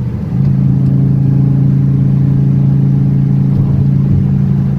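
Hennessey-modified 2002 Dodge Viper V10 engine and exhaust droning at a steady engine speed while cruising on the freeway, the pitch held level throughout.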